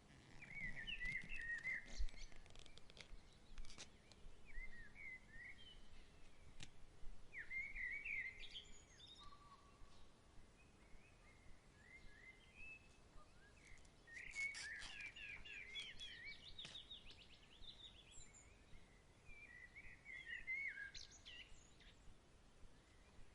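Evening birds chirping and calling on and off, short bright calls with a quick run of repeated notes about two-thirds of the way through, over faint outdoor background and a few soft clicks.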